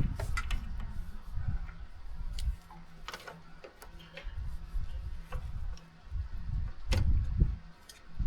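Scattered sharp clicks and knocks, the loudest about three and seven seconds in, over an uneven low rumble of handling noise.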